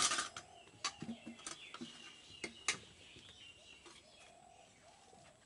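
Birds calling faintly, with a few sharp clicks, loudest at the very start.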